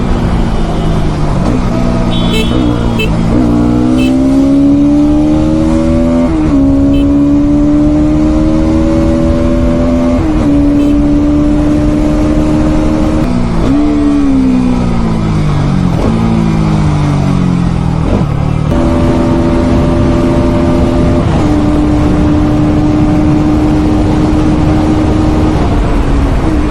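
Bajaj Pulsar NS200's single-cylinder engine pulling at highway speed under a steady rush of wind. Its pitch rises through the gears with several sudden drops at the shifts, falls away in steps about halfway through as the revs come down, then jumps back up and holds a steady cruise.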